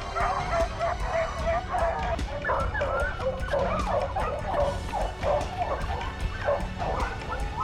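Pack of hunting dogs barking excitedly, a rapid string of barks at about two or three a second.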